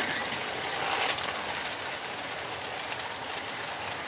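OO gauge model trains running on the track, a steady hiss and rumble of small wheels and motors, with a few faint clicks about a second in.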